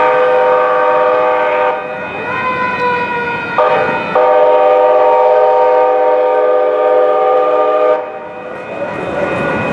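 Train's multi-chime air horn sounding a chord: one long blast, then a short one about three and a half seconds in, then another long blast of about four seconds, the end of the long-long-short-long warning for a grade crossing.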